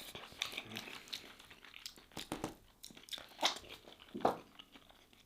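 Close-up eating sounds: a person chewing and smacking on soft beef and creamy harees grain, irregular small clicks and smacks with a few louder ones in the second half.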